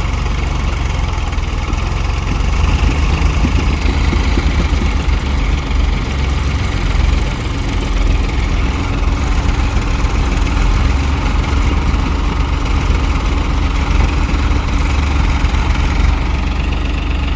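Tractor diesel engine running steadily, a loud, deep low rumble.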